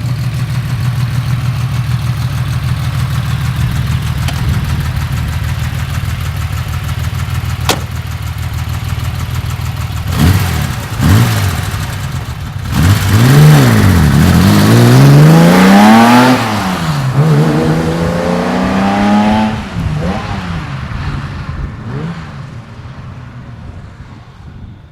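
A 1971 Porsche 911T's 2.2-litre air-cooled flat-six, breathing through Merge Comp 904-style 38 mm headers and a straight-through muffler, idling steadily for about ten seconds, blipped twice, then revving hard through a run of rising sweeps with drops between them as it accelerates through the gears, before fading away.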